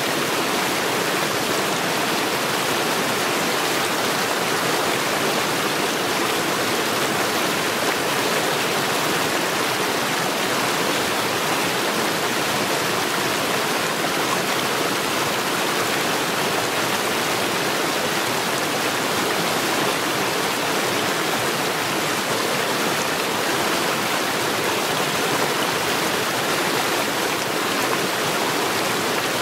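Stream water running, a steady, even rush with no breaks or changes.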